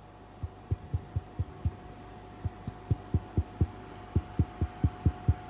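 Ultrasonic welding machine welding a line in felt: a steady hum with a quick, irregular run of short low thumps, several a second, starting about half a second in.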